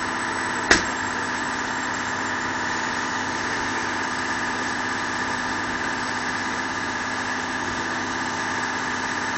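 An engine idling steadily, with one sharp knock about a second in.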